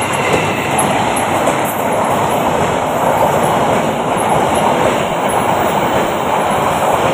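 A passenger train running past close by at speed: a loud, steady rushing noise of the coaches' steel wheels on the rails.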